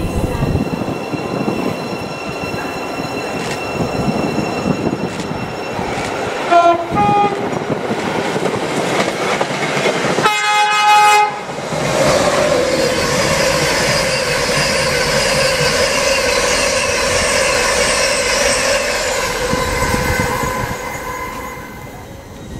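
LNER express train coming through at speed: its horn gives a short two-note blast, then a louder blast of about a second. The train then rushes past with heavy rushing wheel and air noise and a steady whine, fading away near the end.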